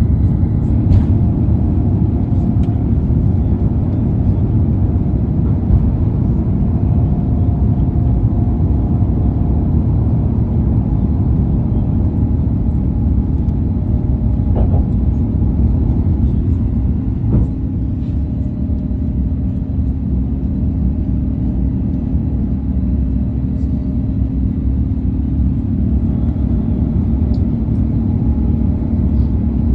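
Airbus A350-900 with its Rolls-Royce Trent XWB jet engines: a loud, steady, low rumble with a faint hum, holding even throughout.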